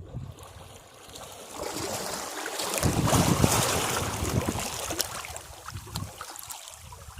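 Sea wave breaking against rocks: the rush of water swells over a couple of seconds and peaks, then drains back with scattered crackles.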